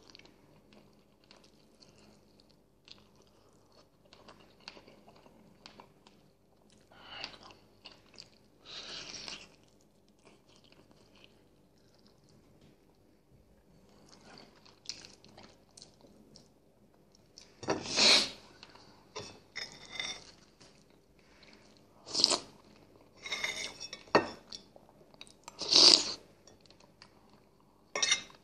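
A person chewing boiled chicken and gnawing the meat off the bone, with wet mouth sounds. Quiet at first, then loud bursts of chewing every few seconds in the second half.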